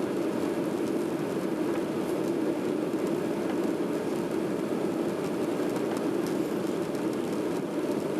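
Boeing 737-800's CFM56-7B jet engines running during takeoff: a steady, even rumble with no change in pitch or level.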